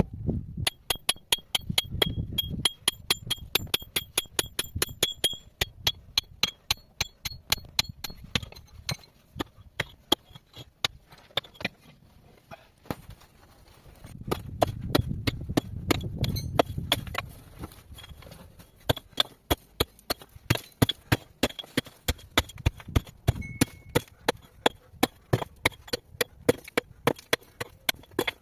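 A hand tool striking hard material over and over, about three to four blows a second, in runs with short pauses. Each blow rings with a high metallic tone for the first several seconds, then the strikes go on drier. A low rumble sits under the strikes twice.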